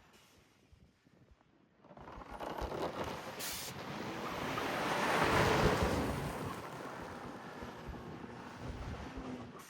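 Turbocharged car's engine and turbo rushing: a broad whooshing hiss that swells after a couple of seconds of near quiet, peaks about five seconds in, then eases off.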